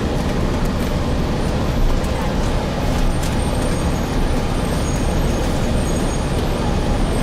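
Steady interior noise of a Gillig Phantom transit bus running, a low rumble with a few faint rattles and clicks.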